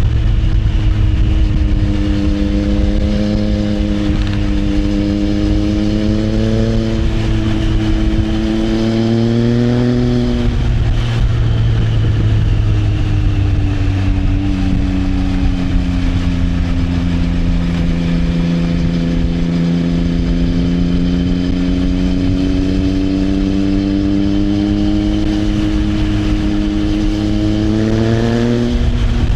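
Triumph Trident 660's inline three-cylinder engine, breathing through an Arrow exhaust, pulling along at a steady pace. Its pitch climbs slowly, falls about a third of the way through, then climbs slowly again and rises quickly just before the end.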